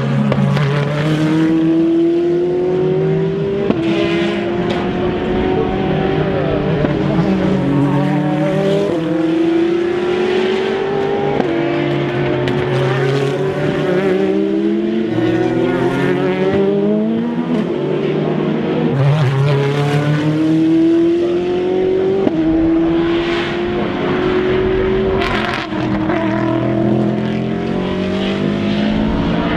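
Several endurance racing cars accelerating hard through the gears, one after another and overlapping, their engine notes rising and then dropping sharply at each upshift.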